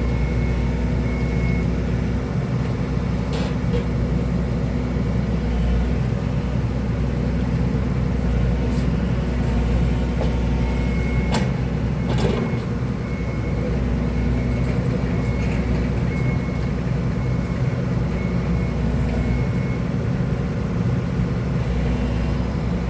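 Excavator's diesel engine running steadily, with a few sharp clicks or knocks about three, eleven and twelve seconds in.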